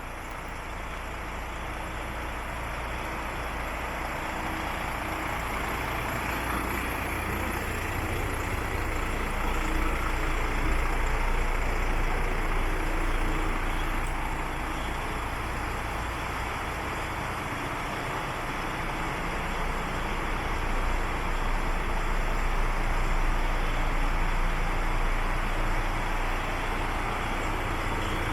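DAF XF105 tractor unit's PACCAR MX 460 straight-six diesel running at idle, a steady low rumble that grows gradually louder.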